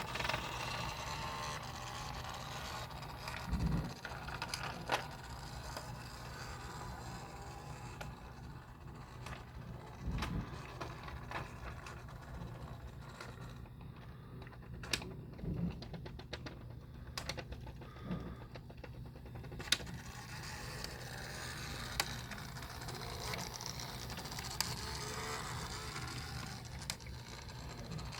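A train engine's mechanism running with a steady low hum, scattered sharp clicks and a few heavier knocks, and faint whines that rise and fall now and then.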